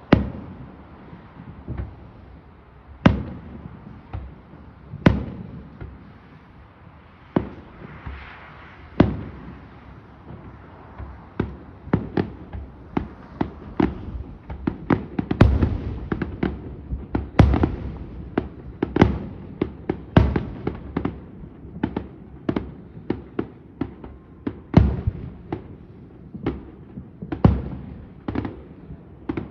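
Fireworks going off: single booms a couple of seconds apart at first, then a dense run of bangs and crackles from about a third of the way in.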